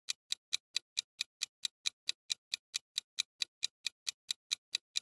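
Clock-like countdown timer sound effect ticking evenly, about four and a half ticks a second, stopping just before the end.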